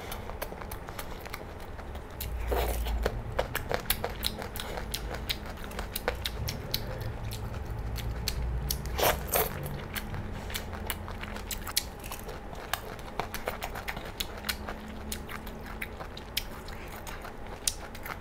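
Close-miked chewing of crunchy chicken feet in Thai-style sauce: a steady run of crisp crunches and mouth clicks, with a few louder bites.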